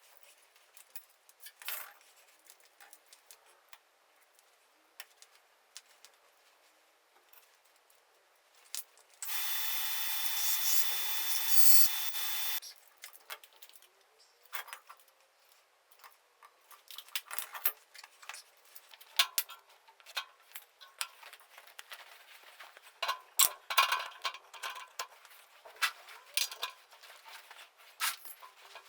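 Workshop handling sounds: scattered clicks, taps and rattles of tools and metal parts, with one steady hissing run of about three seconds near the middle.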